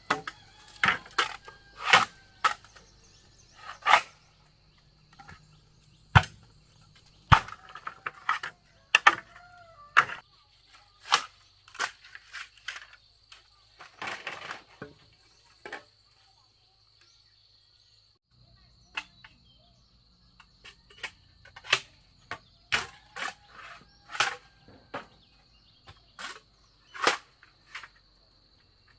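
Irregular sharp knocks and cracks, about one or two a second, with a pause of a few seconds past the middle, over a steady high-pitched whine.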